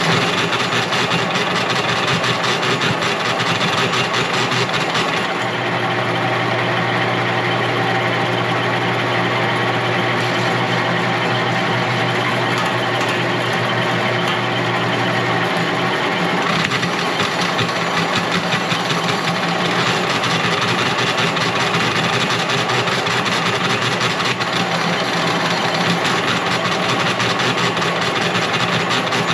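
Motorised wire-stripping machine running steadily, with a low hum that grows stronger for about ten seconds in the middle.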